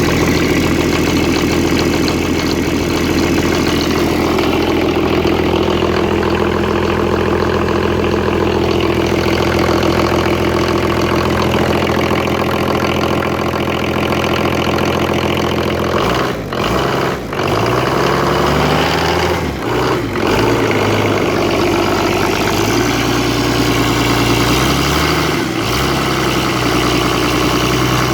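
VM 65 B six-cylinder turbo diesel engine running on test just after a cold start: it idles steadily, is revved up and down a few times about halfway through, then runs on steadily at a somewhat higher speed.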